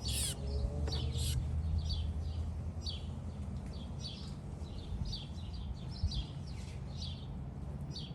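Small birds chirping: short high calls one or two a second, the first few early on sweeping steeply down in pitch, over a low steady rumble.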